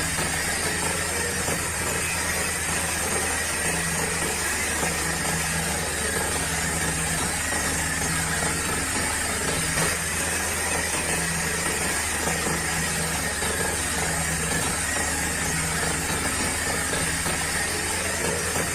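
Small DC motors of a homemade mini tractor model running steadily: a continuous buzzing hum with a hiss over it, and a low tone that comes and goes every second or two.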